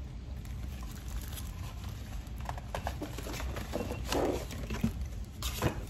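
Crunchy toasted-coconut granola bar being chewed: a scatter of short crisp crunches and clicks, most of them in the second half.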